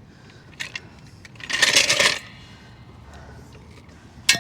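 Metal tools clinking and rattling: a couple of light clicks, a longer metallic rattle with some ringing about a second and a half in, and a sharp click near the end.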